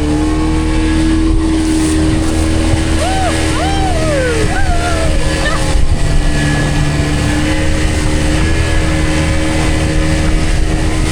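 Motorboat engine running at a steady pitch over heavy low wind and water rumble. A few short rising-and-falling cries sound about three to five seconds in.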